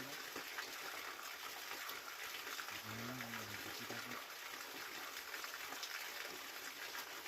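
Waterfall rushing steadily, with a brief low voice murmuring about three seconds in.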